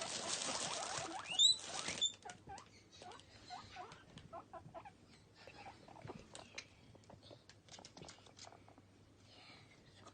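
Guinea pigs scurrying in their bedding: dense rustling for about the first two seconds, with a sharp rising squeak near the end of it. After that it is quieter, with light pattering and a few short, soft squeaks.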